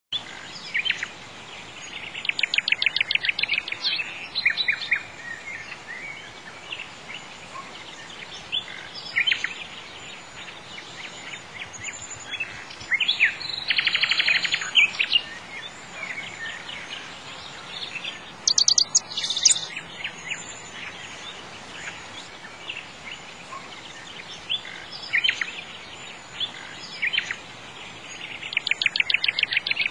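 Birdsong: several birds chirping, with rapid trilled phrases every several seconds, over a steady faint background noise.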